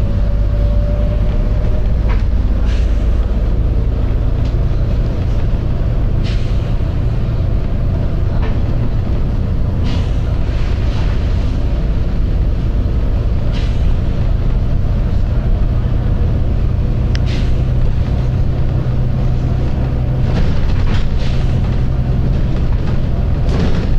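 Volvo B9TL double-decker bus's six-cylinder diesel engine running steadily with a low drone. Brief sharp hisses of air break in every few seconds from the bus's air system.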